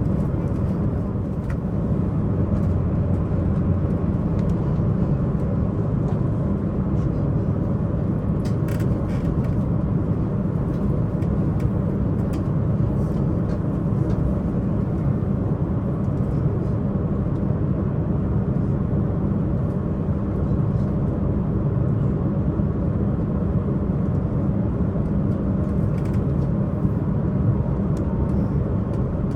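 Tze-Chiang diesel multiple unit's diesel engine running steadily under way, with wheels on rails, heard from inside the carriage. There are a few faint clicks.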